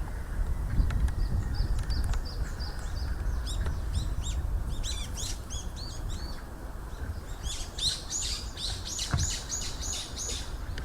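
Birds chirping in quick runs of short, high, down-slurred notes, three runs in all, the last and fullest in the final few seconds.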